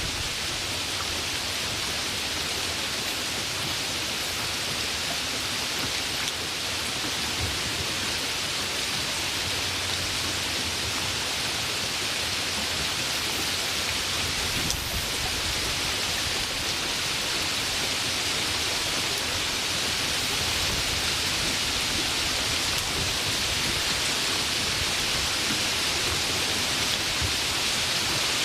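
Steady rain falling, an even hiss that grows slightly louder toward the end.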